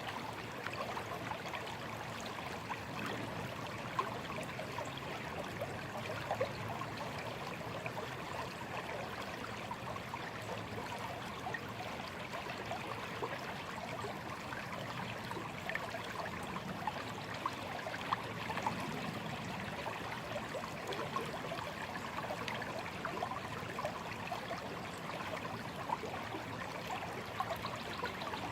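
A small stream flowing and trickling steadily over stones, a continuous babble with many small splashes and gurgles.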